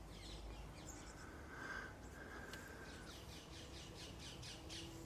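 Small birds chirping, faint, with a quick run of short high chirps in the last couple of seconds.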